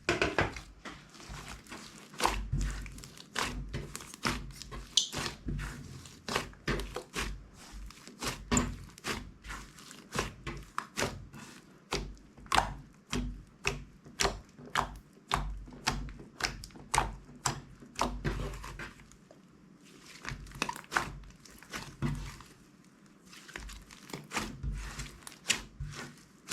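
Slime being squished and poked, making a run of sharp sticky pops and clicks, about two or three a second, with a couple of brief lulls.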